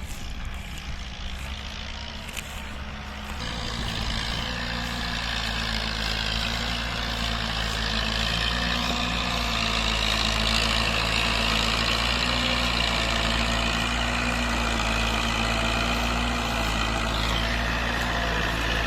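Tractor diesel engine running steadily while pulling a disc plough through a field; it grows louder about three and a half seconds in and then holds steady.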